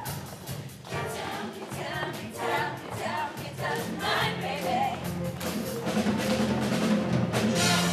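Music: a show choir's upbeat number, with choir voices over band accompaniment.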